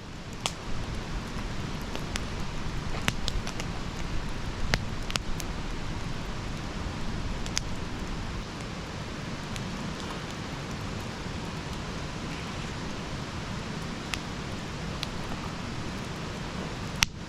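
Campfire burning with a steady hiss and scattered sharp crackles and pops, more frequent in the first half.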